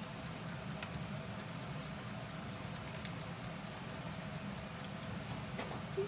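A timer ticking steadily over a low, steady hum.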